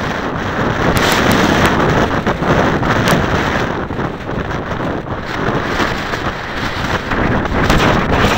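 Strong gusting wind buffeting the microphone, a loud, uneven rumble and roar with brief sharp crackles. It is a 20-30 mph wind blowing up the slope.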